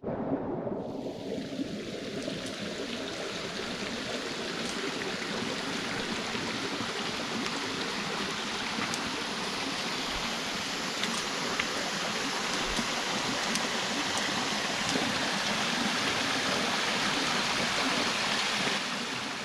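Flowing stream water rushing over rocks, a steady even wash with a few faint clicks.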